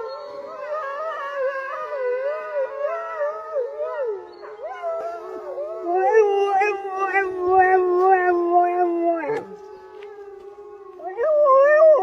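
A dog howling in long, wavering howls, often with two pitches sounding together; the howling dips briefly about four seconds in and again near the end, then swells back.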